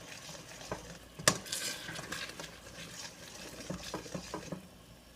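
Utensil stirring curry paste and coconut milk in a pan, scraping and knocking against the pan over a light sizzle, with one sharp clack about a second in. The stirring stops near the end.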